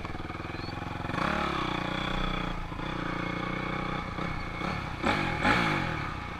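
Honda CRF250R dirt bike's single-cylinder four-stroke engine running, picking up about a second in and revved up sharply twice near the end.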